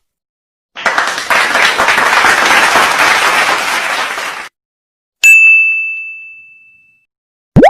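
A string of stock sound effects. First comes a burst of applause-like clapping lasting about four seconds. It stops abruptly and is followed by a single bright bell ding that rings out and fades, then a quick rising whistle-like glide near the end.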